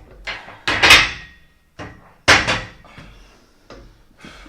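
Weight-training equipment knocking and clattering: two loud clanks about a second and a half apart, with smaller knocks before and between them.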